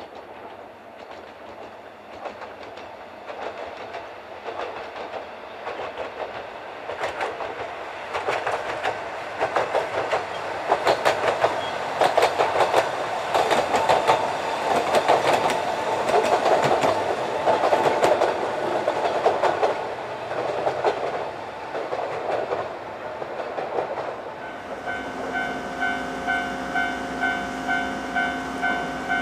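A Yokkaichi Asunarou Railway 762 mm narrow-gauge electric train passes. Its running noise swells and fades, with rapid clickety-clack of wheels over rail joints at its loudest. About 25 seconds in, a level-crossing warning bell starts ringing in steady, evenly spaced dings.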